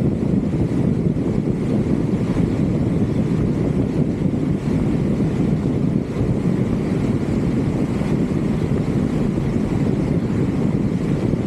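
Steady wind rushing and buffeting on a roof-mounted camera's microphone, a low, even rumble with no distinct events.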